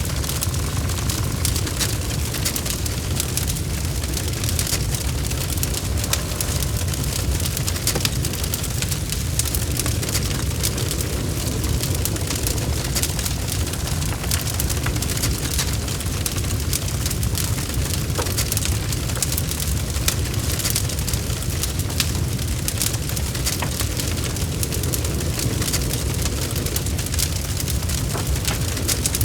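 Log fire burning in a fireplace: a steady low rumble with frequent small crackles and pops.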